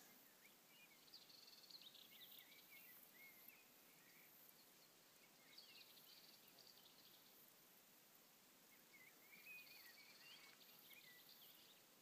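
Faint birdsong: short phrases of high, wavering chirps that come in a few bursts, in the first few seconds, about halfway through and again near the end.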